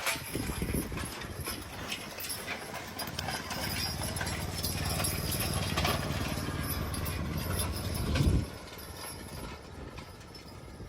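Working draft horses' hooves clip-clopping over a low, steady engine rumble from the power pack that hauls the log trailer; the rumble cuts off about eight seconds in.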